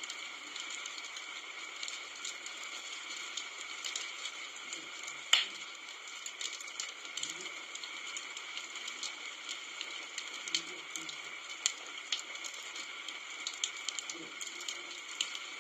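Wood fire crackling: a steady hiss of flames with frequent sharp pops and snaps, one much louder pop about five seconds in.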